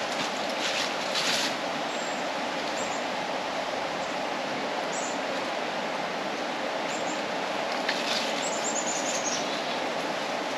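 Small birds chirping a few times, with a quick descending trill near the end, over a steady rushing background noise.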